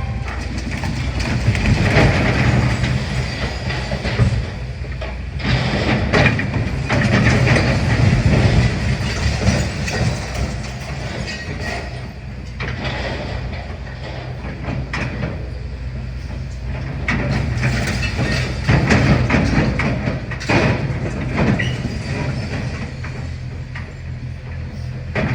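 Demolition excavator's diesel engine running steadily, with repeated irregular crunching and scraping of rubble and masonry as it works.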